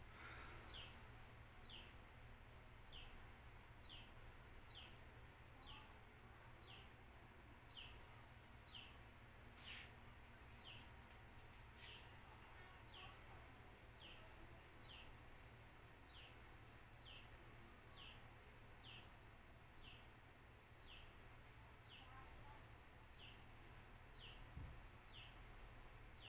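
Near silence with a faint bird call: a short high chirp falling in pitch, repeated about once a second, over a low steady hum.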